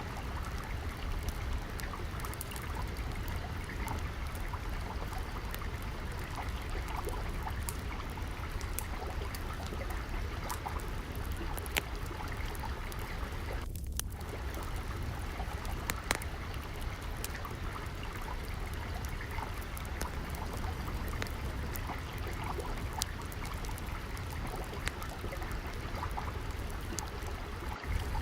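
Steady flowing water with a deep rumble underneath, overlaid by scattered sharp crackles and pops of a wood fire burning.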